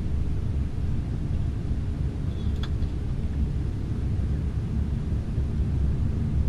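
Steady low rumble inside the cabin of an Airbus A320-216 with its CFM56 engines running, with one brief click about two and a half seconds in.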